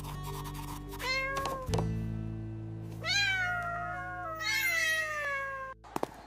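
A cat meowing three times, each a wavering cry, the third the longest, over sustained background music chords; all of it cuts off abruptly near the end.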